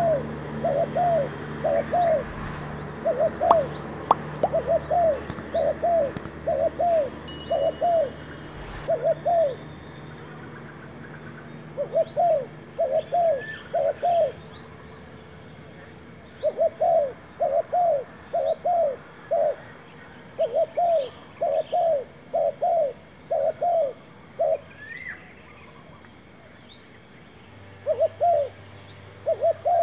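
Spotted dove cooing: groups of short, loud coo notes repeated about twice a second, with pauses of a few seconds between groups. Faint chirps from small birds sound higher up.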